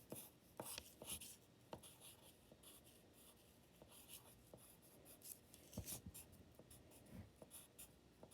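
Faint pencil strokes scratching on paper in short, irregular strokes while a cat's legs are drawn, with a few light knocks.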